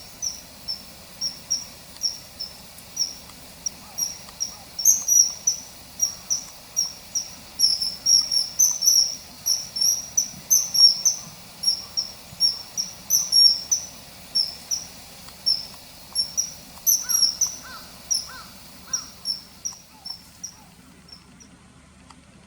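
Common kingfisher calling: a long run of short, shrill high whistles, about two or three a second, that stops near the end.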